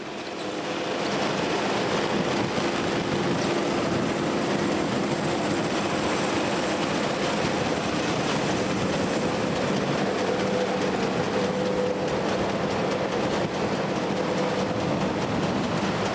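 Vintage harvest machinery running steadily, a loud continuous mechanical clatter with a steady hum. It fades in over the first second.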